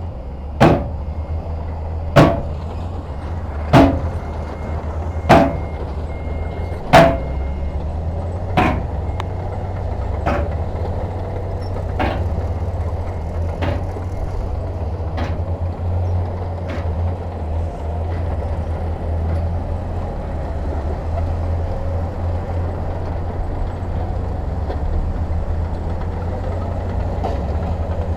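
Heavy diesel machinery engine running with a steady low rumble. For the first half there are sharp knocks about every second and a half, each fainter than the last.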